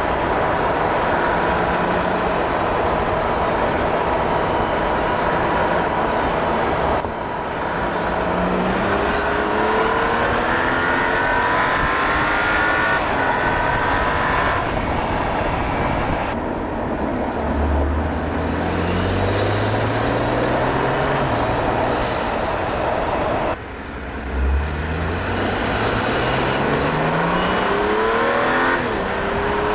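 BMW 335i's turbocharged N55 3.0-litre inline-six pulling hard under load. The engine note rises in long sweeps, with turbo spool and wastegate noise, and drops sharply on lift-off about seven seconds in and again near 24 seconds. A steady rush of wind and road noise runs underneath.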